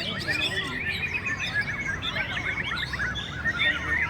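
Several caged white-rumped shamas (murai batu) singing at once in competition, a dense overlapping tangle of quick whistles and chirps.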